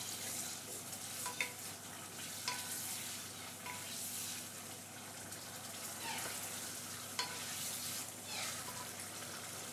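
Bottle gourd pieces sizzling as they fry down in a wet onion-tomato masala in an aluminium pan. A wooden spatula stirs them, scraping and tapping the pan about once a second.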